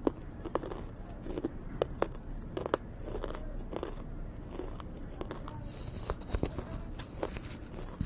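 Crunchy biting and chewing of hard roasted cubes: a series of sharp cracks, about a dozen spread irregularly, with quieter chewing between them.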